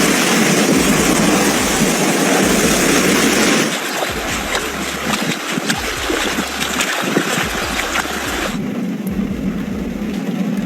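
Loud steady rush of water. About four seconds in it changes abruptly to a rougher rush scattered with many small clicks, and near nine seconds to a duller, lower rush.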